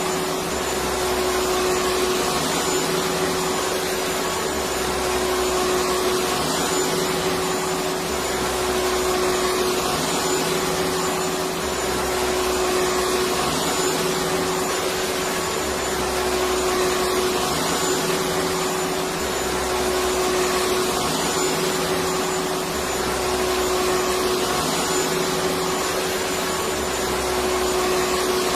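Electric vacuum cleaner running steadily: a continuous rushing noise with a steady humming tone, unchanging throughout.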